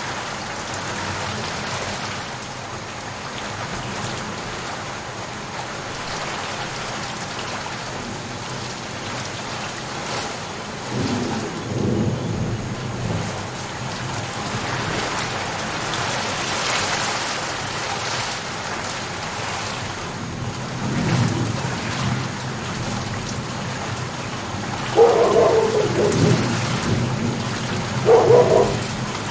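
Steady heavy rain, with low rolls of thunder about eleven and twenty-one seconds in, and a few loud, short bursts near the end.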